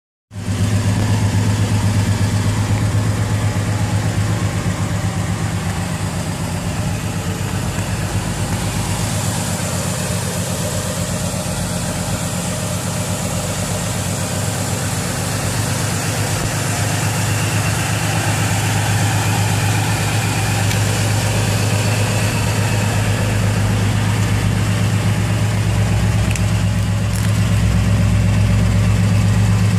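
1968 Plymouth Road Runner's V8 idling steadily with a deep, even rumble, growing slightly louder near the end.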